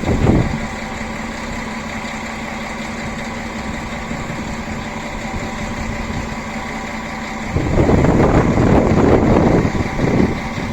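A train idles at the platform with a steady engine hum. About three quarters of the way in, a loud rush of wind noise buffets the microphone for about two seconds, and there is a brief one at the start.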